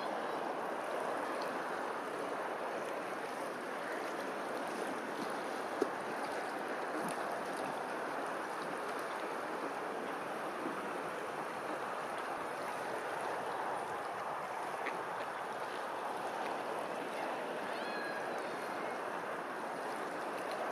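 Steady rush of water. A few faint high chirps come near the end, and a single sharp click about six seconds in.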